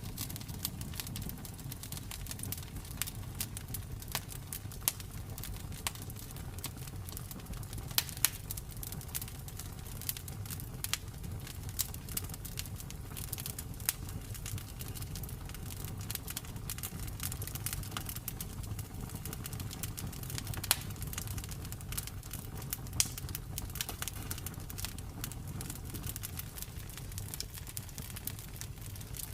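Campfire burning, wood crackling and popping irregularly over a low steady rumble of the flames, with a handful of louder snaps.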